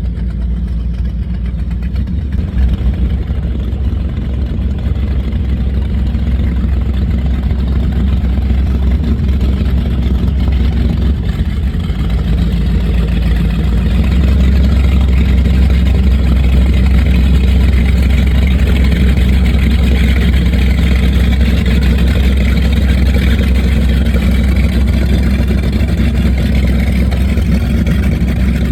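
Offshore powerboat engines running hard, a steady heavy low rumble that grows a little louder about halfway through.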